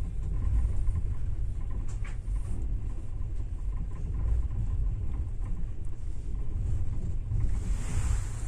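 Sleeper train carriage running on the rails: a steady low rumble heard from inside the compartment, with a louder hiss swelling near the end.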